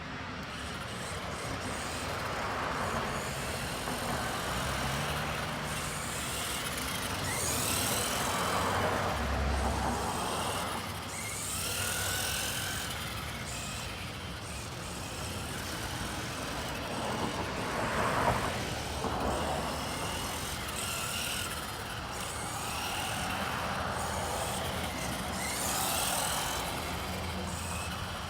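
Electric motor and drivetrain of a 1/18-scale Axial RC trophy truck whining, its pitch rising and falling again and again as the throttle is worked, with the tyres scuffing over the shop floor.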